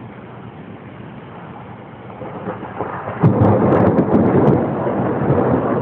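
Thunder from a close thunderstorm: a low rumble, then about three seconds in a sudden loud crack that rolls on as crackling, rumbling thunder, with rain falling.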